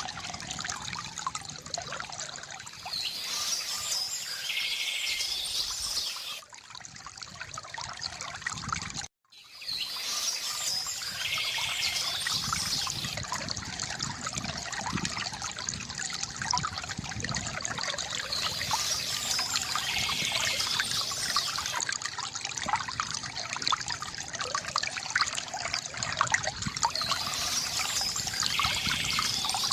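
Water trickling and splashing from a bamboo fountain, with birds chirping; one bird call comes back about every eight seconds. The sound drops out for a moment about nine seconds in.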